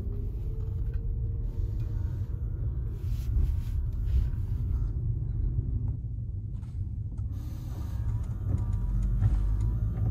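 Suzuki Swift's engine idling, heard inside the cabin as a steady low rumble. A faint rising whine comes in near the start.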